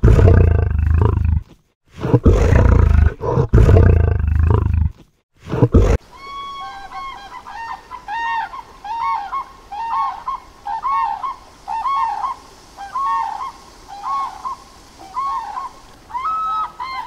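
A large animal roaring in two long, loud, rough bouts. After an abrupt cut comes a different animal giving a steady series of short, rising-and-falling calls, about two a second.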